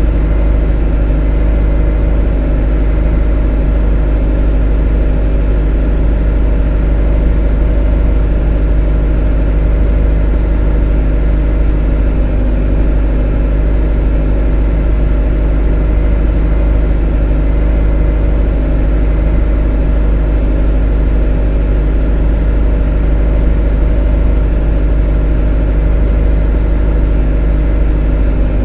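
A motor running at a constant speed: a strong deep hum with a stack of even, steady tones above it, unchanging throughout.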